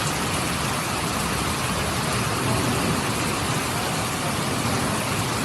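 Heavy rainstorm: a steady, even rushing hiss of downpour.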